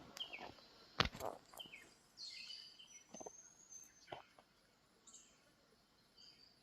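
Faint bird calls: short high chirps and whistles scattered through, with three or four soft knocks, the loudest about a second in.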